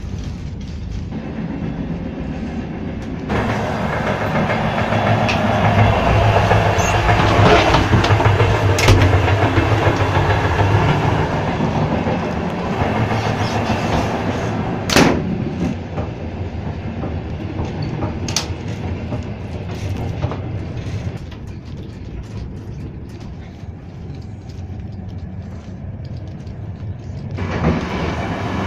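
Rumble and clatter of a moving steam-hauled passenger train heard from inside its cars. The noise is louder for a long stretch while crossing the vestibule between cars, with two sharp knocks in that stretch. Near the end a door is opened and the noise swells again.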